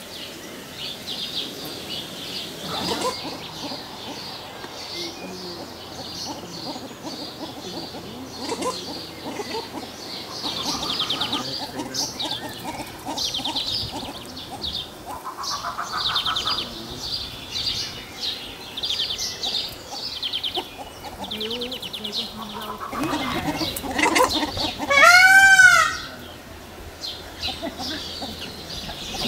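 Birds calling: repeated high, rapidly trilled chirps throughout, with one loud rising-and-falling call about 25 seconds in.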